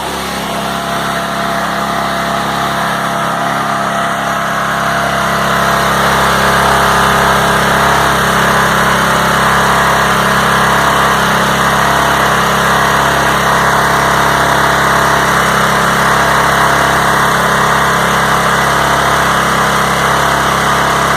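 Petrol engine of a Dulevo Storm high-pressure washer running steadily, growing louder over the first few seconds and then holding level.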